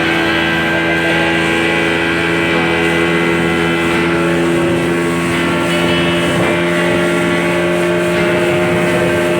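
Speedboat engine running at a steady speed, with water rushing past the hull.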